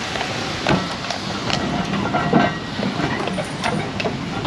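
Tram running on rails: irregular clicks and knocks over a steady hum and hiss.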